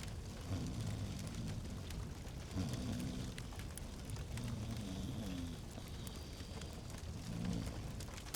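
Fireplace fire crackling at a low level, with scattered small pops over a soft steady hiss.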